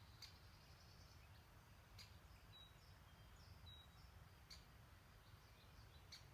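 Faint woodland ambience: a few brief, high bird chirps over a low steady rumble, with three soft clicks spread through it.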